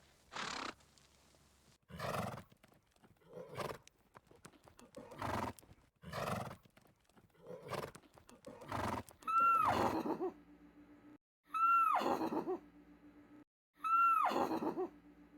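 Horse neighing: a run of short, breathy sounds about once a second, then three loud neighs about two seconds apart, each rising and then falling in pitch.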